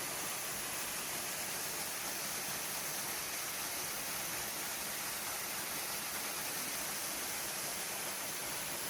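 Pfeiffer Falls' waterfall, a steady, even rush of falling water.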